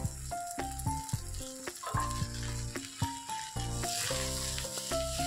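Rice, moong dal, grated coconut and carrot sizzling as they fry in oil and ghee in a pressure cooker, with a spatula stirring the mix from a little after halfway, when the sizzle gets louder. Background music with a melody of held notes over a steady bass runs along with it.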